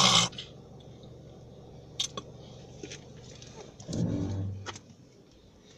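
Low steady hum of a car engine heard inside the cabin while queued in slow traffic, with a few sharp clicks and a brief louder low sound about four seconds in.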